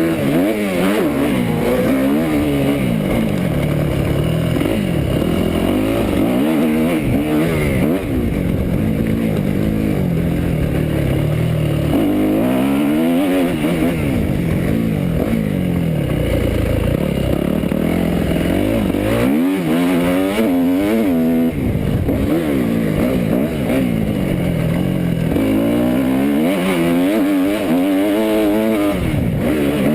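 250 cc four-stroke motocross bike's engine, heard onboard, revving hard and dropping off again and again as the throttle is opened and shut, its pitch climbing and falling every second or two.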